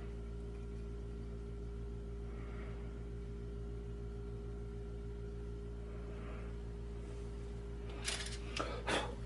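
Steady machine hum with a few fixed tones and a faint even pulsing. Near the end come three short scraping, clattering noises, the loudest sounds here, from a measuring tool being handled.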